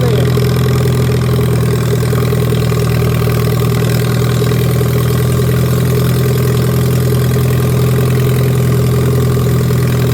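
Lawn mower engine running steadily at an even speed, with a strong low hum that holds one pitch throughout.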